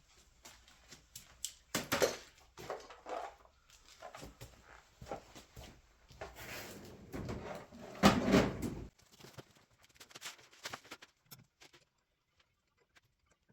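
Irregular clicks, knocks and rustling of tools and parts being handled. A louder clatter comes about two seconds in, and the loudest, lasting about a second, comes about eight seconds in. It dies away to near quiet near the end.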